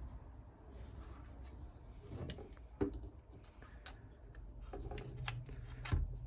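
Scattered small clicks and light knocks of a car door lock mechanism and its cable ends being handled and fitted, a few sharper ticks among softer rubbing.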